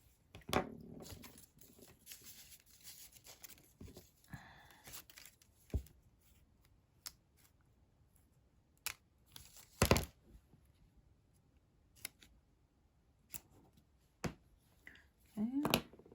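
Paper-craft handling at a work table: card and backing paper rustling and peeling, with scattered taps and clicks of card on the surface.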